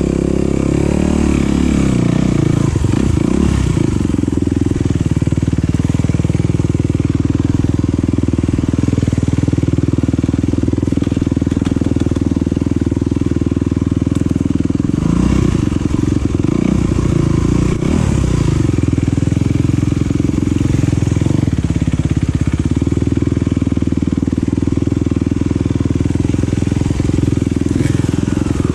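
Enduro dirt bike engine running under load, its revs rising and falling in a few quick sweeps about halfway through.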